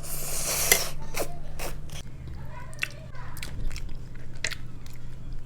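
Close-up biting and chewing of crispy fried food: a loud crunchy bite in the first second, then a run of sharp crunches as it is chewed.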